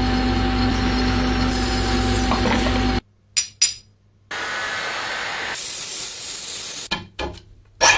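A power tool's motor running steadily with a constant whine, cut off abruptly about three seconds in. Two short clicks follow, then a steady hiss of spraying lasting a few seconds, and a few sharp metallic knocks near the end.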